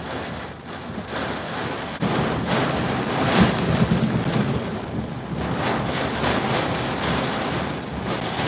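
Severe thunderstorm winds gusting, with wind noise on the microphone: a rushing noise that jumps louder about two seconds in and then surges in gusts.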